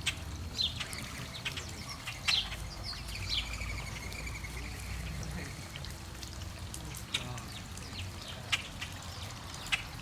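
Small birds calling around a backyard water feature: many short, sharp chirps and whistled notes, with a longer falling call about three seconds in, over the steady trickle of the water feature and a low background rumble.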